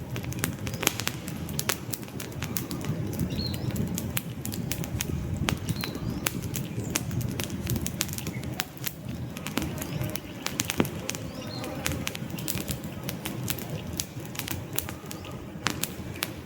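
Wood campfire burning: a steady low rush of flames with frequent sharp, irregular crackles and pops from the logs. Faint short bird chirps come in now and then.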